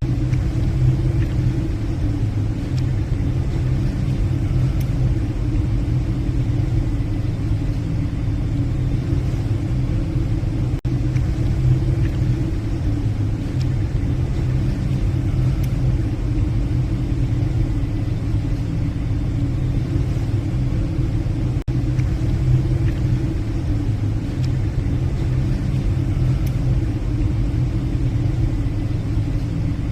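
Steady low drone of a passenger ship's engines and machinery, an even rumble with a deep hum.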